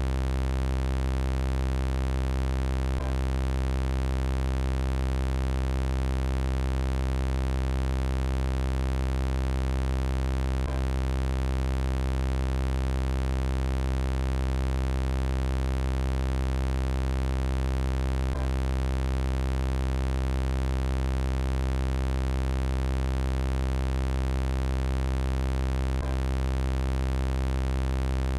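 Synthesized robot-voice sound effect: a steady, buzzy electronic drone held on one low pitch, with a faint click about every eight seconds.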